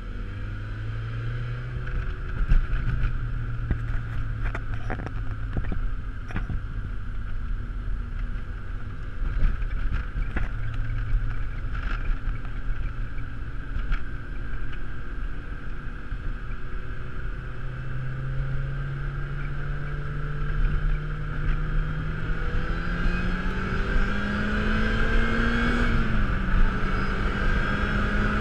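Lotus Exige's engine heard from inside the cabin at highway speed, running steadily, then accelerating with its pitch climbing over the last third. The pitch drops sharply once near the end at an upshift and climbs again, over steady road noise with a few knocks from the road surface early on.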